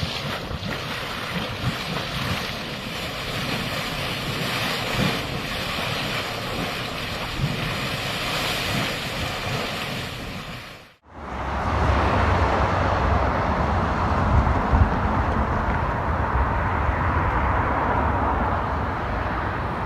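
A steady rushing noise with no distinct events runs for about eleven seconds and cuts off abruptly. After the break comes a different, deeper rushing rumble of wind buffeting the microphone.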